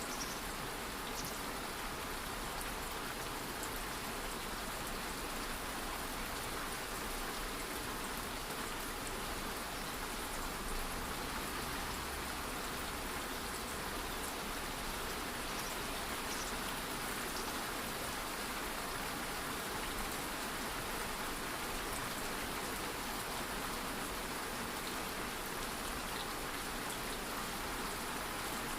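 Steady light rain falling, an even hiss with a few faint separate drops now and then.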